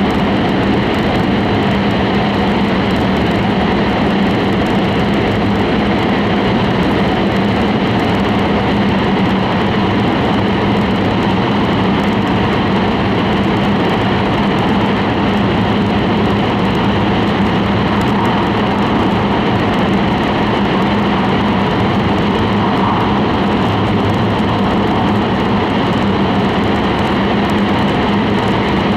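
Steady cabin noise of an E5-series Shinkansen running through a tunnel: a constant rushing rumble with a low hum underneath, unchanging throughout.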